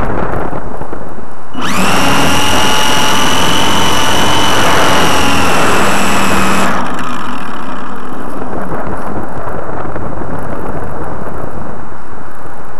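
Electric motor of a GWS Slow Stick model airplane whining under power, heard from the plane itself, over steady wind rushing across the microphone. The whine comes in about two seconds in, holds for about five seconds, sags slightly in pitch and stops, leaving only the wind.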